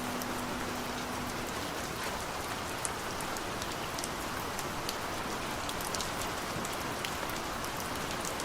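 Steady rain falling, an even hiss with scattered sharp drop ticks. A faint low held tone fades out about a second and a half in.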